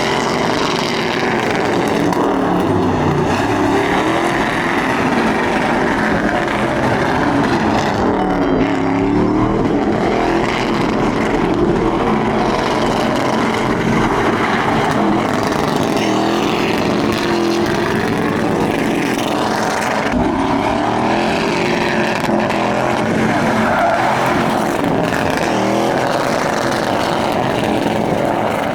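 Truck engines revving up and down over continuous tyre squeal, trucks doing burnouts and donuts.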